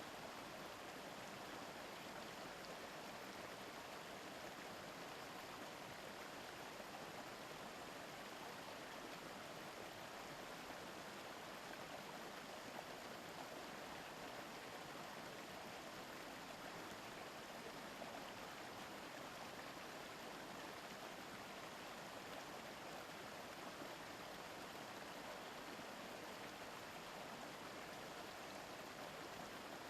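A mountain stream burbling over rocks, a steady, unbroken rush of flowing water.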